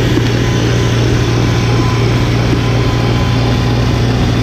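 Gas snowblower engine running steadily at working speed while clearing snow, with a constant engine hum.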